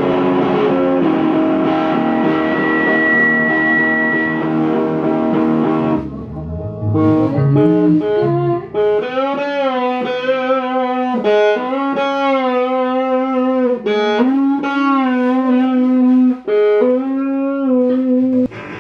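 Electric guitar playing: a dense chord held for about six seconds, then a run of single sustained notes with bends and slides.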